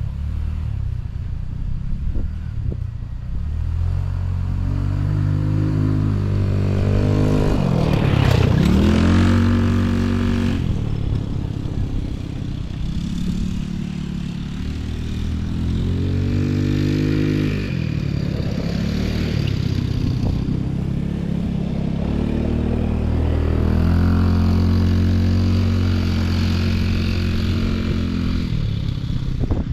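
Off-road motor vehicle engine running under a rider's throttle. Its pitch rises and falls several times as it revs up and settles back, with the sharpest rise and a louder rush about eight seconds in.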